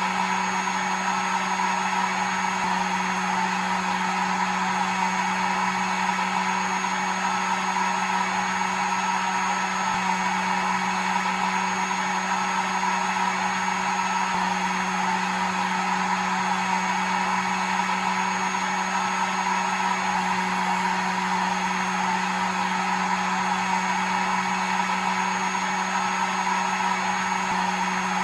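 Hair dryer running steadily: an even blowing rush with a constant motor hum, unchanging throughout.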